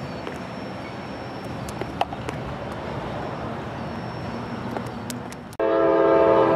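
Freight train of covered hopper cars rolling away over the rails, a steady rumble of wheels on track. About a second before the end it cuts abruptly to a diesel locomotive's air horn sounding loudly in a chord of several tones.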